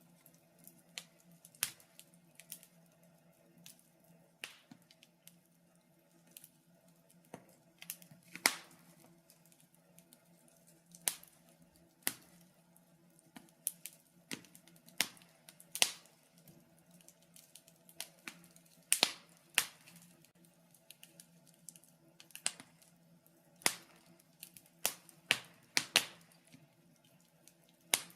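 Wood fire in a fireplace crackling: sparse, irregular sharp pops and snaps, sometimes in quick clusters, over a faint steady low hum.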